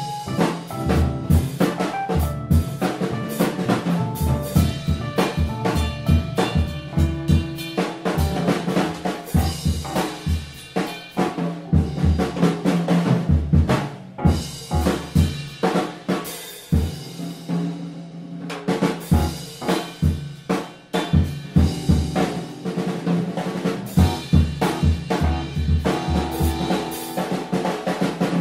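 Jazz band playing, with the drum kit to the fore: busy snare and bass drum hits over pitched instruments.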